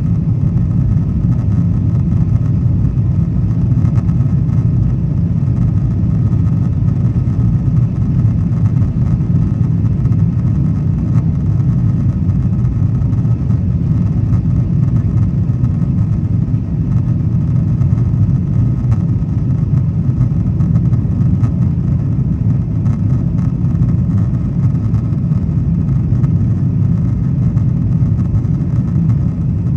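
Steady low rumble of a Boeing 777-200ER's engines and airflow at climb power, heard inside the passenger cabin, with a faint steady whine above it.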